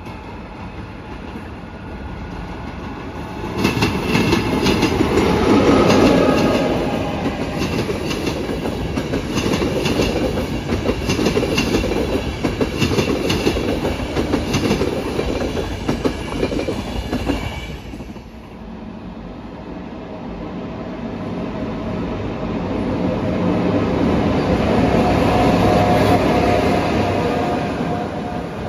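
Passenger train passing close by, its wheels clattering rhythmically over rail joints. After that, an electric locomotive running past with a steady hum that swells and then fades as it moves away.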